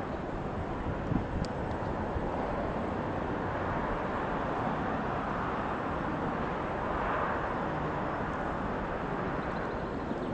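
Train passing on the line: a steady rushing noise that swells a little about seven seconds in.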